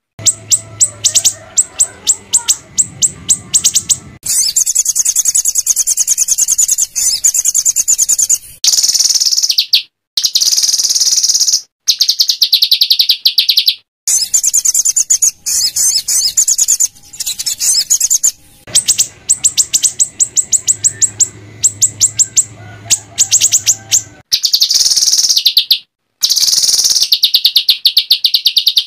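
Small songbird calling in fast, harsh, high-pitched chattering trills and rapid ticking series, the kind of rough 'shot' phrases used as masteran tutor song for white-rumped shamas. The stretches of calling are broken by sudden cuts to silence several times, as in an edited, looped recording.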